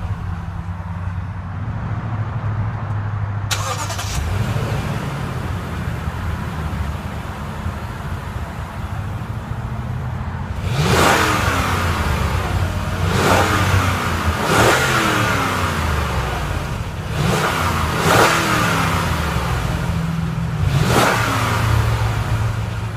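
2015 Lexus GX 460's 4.6-litre V8 idling steadily, then revved in about six quick throttle blips over the second half, each rising and falling back to idle.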